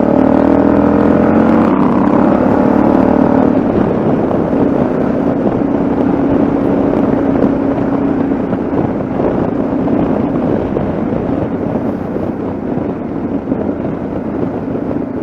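Yamaha XT660Z Ténéré's single-cylinder engine under way, its pitch rising slightly in the first few seconds as it accelerates, then running steadily, with wind and road noise.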